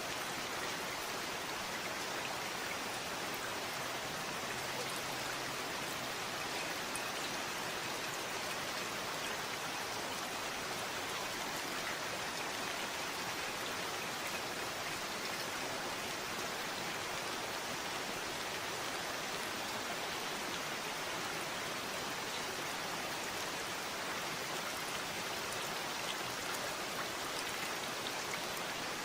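Steady rain falling: an even hiss of rainfall with fine scattered drop ticks, unchanging throughout.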